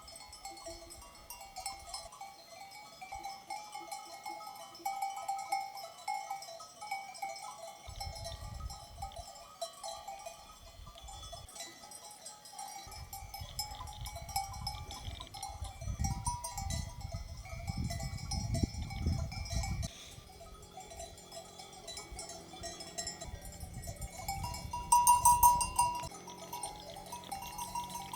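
Sheep bells on a flock clanking and ringing throughout at several pitches, with the sheep around them. A low rumble runs underneath from about 8 to 20 seconds in, and a louder ring stands out about 25 seconds in.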